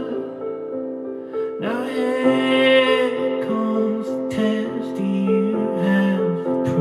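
Slow, sad song on piano: sustained chords with a voice singing a long, wavering note about one and a half seconds in.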